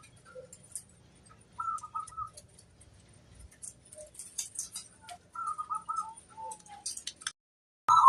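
Zebra dove (perkutut) cooing: two short runs of quick, rippling coos, about a second and a half in and again past five seconds, with thin high chirps of other small birds scattered throughout. The sound cuts out abruptly just after seven seconds.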